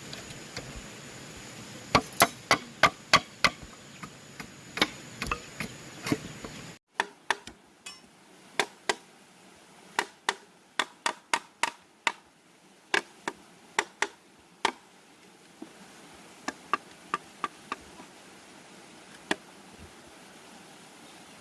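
Repeated sharp strikes of a hand tool on bamboo during construction, coming in irregular runs of several blows with short pauses. A faint steady high whine sounds under the first few seconds and stops abruptly about seven seconds in.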